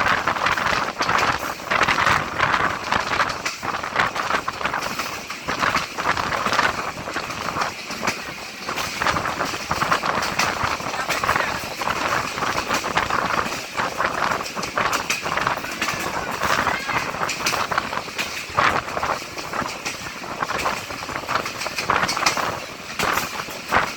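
A passenger train running, with a steady rattle and clatter of the carriage, and people's voices mixed in.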